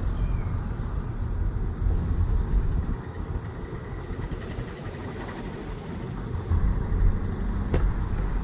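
2018 Audi A3 1.5 TFSI car running, a steady low rumble with uneven buffeting, and a single sharp click near the end.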